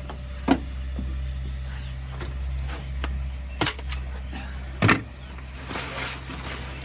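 Sharp knocks about half a second, three and a half and five seconds in, the last the loudest, over the steady low rumble of a running engine.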